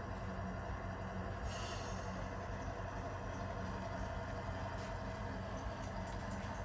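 Model locomotive sound decoder (Tsunami 2) playing a GE 7FDL-16 diesel engine running steadily under throttle, heard through the model's small speaker, with a brief hiss about a second and a half in.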